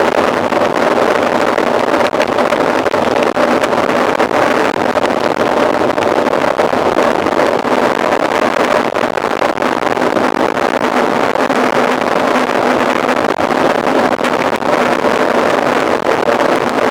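Steady rushing noise of riding a mountain bike at speed: wind on the microphone and tyres rolling over the trail, with frequent small rattles.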